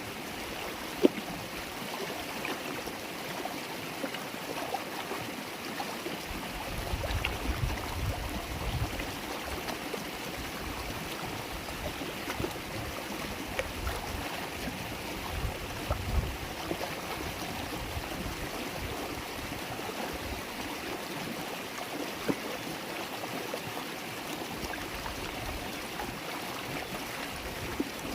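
A river stream babbling steadily over stones, with scattered small splashes and a sharp click about a second in. A low rumble comes and goes for a couple of seconds near a quarter of the way through and again around the middle.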